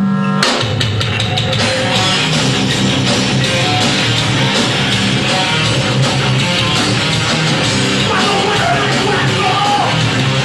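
Live rock band playing loud and dense with distorted electric guitars and drums, the full band coming in together about half a second in.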